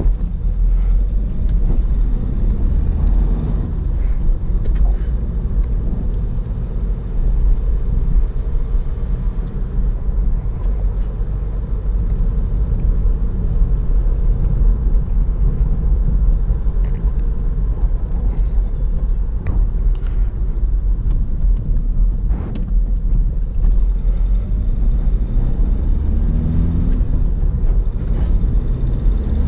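Opel Astra 1.6 BiTurbo CDTI twin-turbo four-cylinder diesel car driving, a steady low rumble of engine and road noise. The engine note rises briefly near the end.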